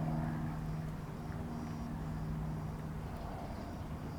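Steady low hum under a faint, high-pitched chirping that repeats about twice a second, like crickets.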